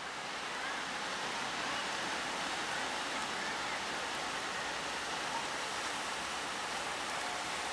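Steady wash of sea surf and breaking waves, an even, unbroken noise.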